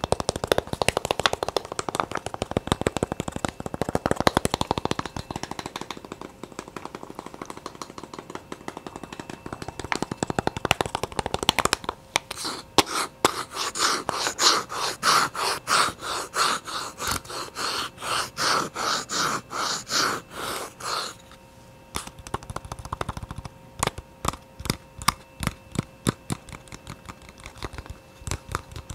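Fast ASMR tapping: a rapid run of many light taps a second close to the microphone, swelling and fading in quick pulses through the middle stretch.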